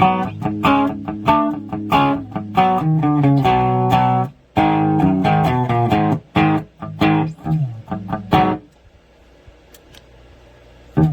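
Electric guitar played on a clean channel without distortion: a phrase of picked notes and chords that stops about three-quarters of the way in, with a short lull before the playing starts again at the very end.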